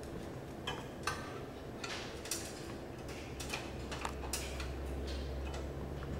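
Irregular light clicks and taps of small parts being handled while a replacement furnace pressure switch is remounted and its hose and wires are connected, over a steady low hum.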